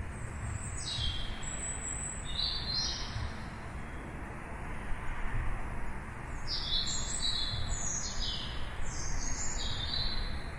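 Small birds chirping: short, quick, high calls that drop in pitch, in two clusters, the first near the start and a longer run in the second half. A steady low background rumble runs underneath.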